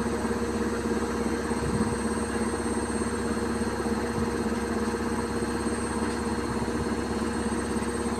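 Beko WKY71233LSYB2 washing machine in its spin cycle: a steady motor hum and drum vibration, holding one even pitch.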